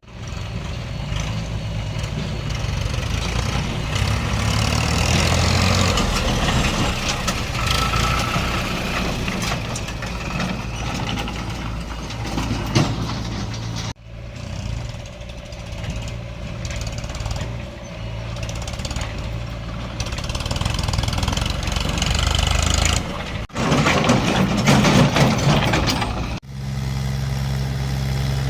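Diesel engines of a backhoe loader and tractors running, the engine note rising and falling as the machines work. The sound breaks off abruptly about halfway through and twice near the end, where the engine note changes.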